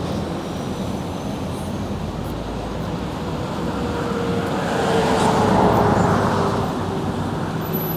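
Road traffic noise, with a vehicle passing close that grows loudest about five to six seconds in and then fades.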